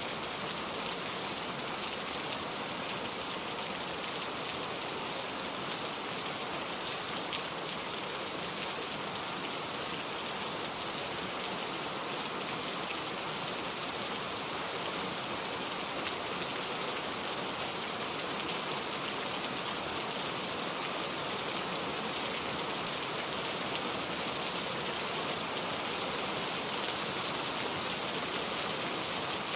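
Steady rain falling: an even, dense hiss with many small drop ticks scattered through it.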